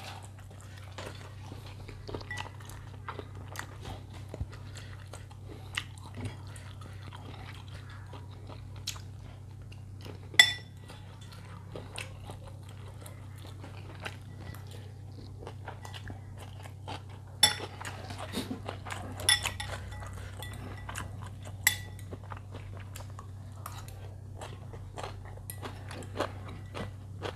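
Chewing of a mouthful of bakmie chicken noodles with bean sprouts and meatballs, as many small soft clicks and crunches. A few sharp clinks of cutlery against the bowl come about a third of the way in and several times after the middle, over a low steady hum.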